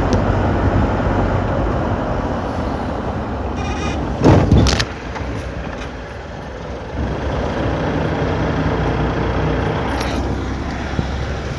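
Car driving: steady engine and road rumble, with a brief loud burst about four seconds in.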